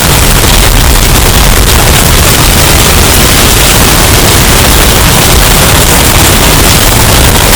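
Hurricane wind sound effect, bass-boosted and overdriven into a steady wall of clipped, distorted noise at full loudness, heaviest in the bass.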